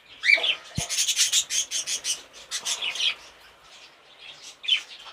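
Cockatiels chirping and calling. A short curved call comes just after the start and another near the end, with a run of quick chirps in between.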